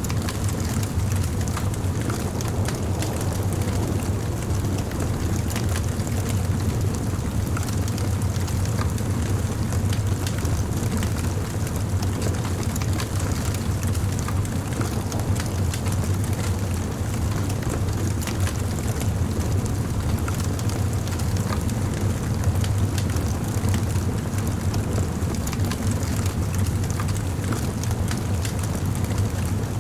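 Wood campfire burning: a steady low rumble of the flames with scattered small crackles and pops from the burning wood.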